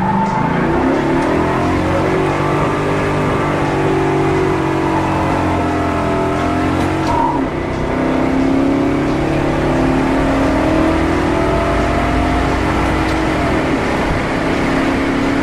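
1965 Oldsmobile 442's V8 under hard acceleration, its pitch climbing steadily and dropping back twice, about halfway through and near the end, as the Turbo 400 automatic shifts up.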